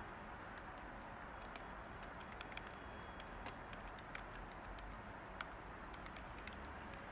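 Light typing on a computer keyboard: irregular, scattered key clicks over a steady white-noise hiss.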